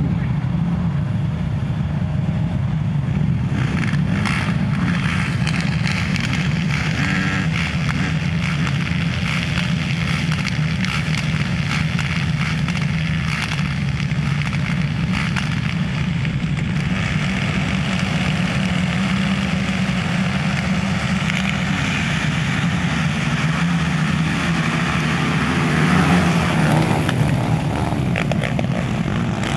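Racing quad (ATV) engines running together in a steady, loud drone, a little louder about three-quarters of the way through.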